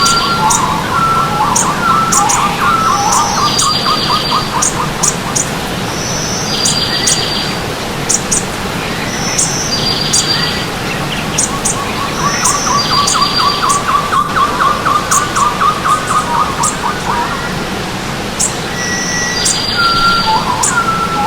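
Forest birds singing over a steadily running stream: one bird repeats a short, high phrase about every three seconds, while another gives long runs of quick, lower repeated notes, first near the start and again in the middle.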